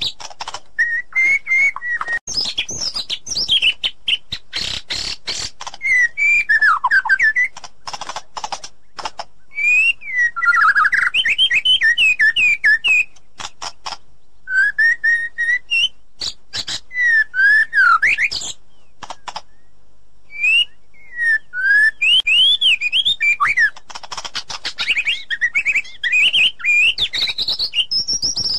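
White-rumped shama singing: loud whistled phrases that slide up and down, mixed with rapid runs of sharp clicking notes, in bursts with short pauses between them.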